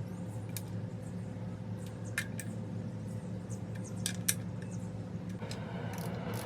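Light metallic clinks and clicks of tools and parts being handled, scattered irregularly over a steady low hum.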